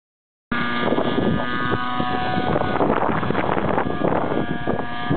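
Radio-controlled helicopter hovering, its motor and rotor running with a steady tone, under heavy gusting wind noise on the microphone. The sound starts abruptly about half a second in.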